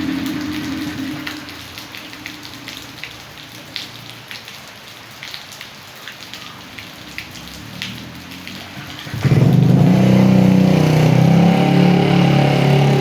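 Steady rain with scattered drops pattering close by. A low motor-like drone fades out in the first second, and about nine seconds in a loud, steady motor drone starts suddenly and runs on over the rain.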